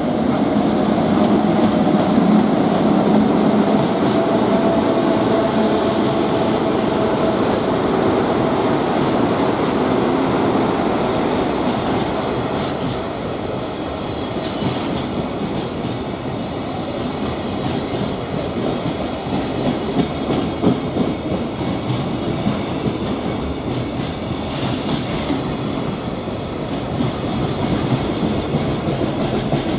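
JR Freight EF66 electric locomotive passing close, then a long freight train of container wagons rolling by, wheels clickety-clacking over rail joints. A steady hum from the locomotive dies away within the first several seconds, leaving the rumble and clatter of the wagons.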